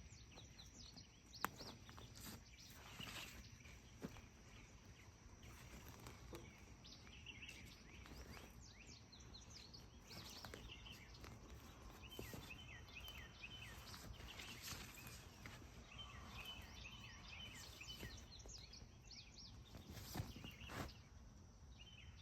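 Faint outdoor ambience with small birds chirping: many short downward chirps and several quick trilled phrases over a low steady background hiss, with a couple of brief clicks.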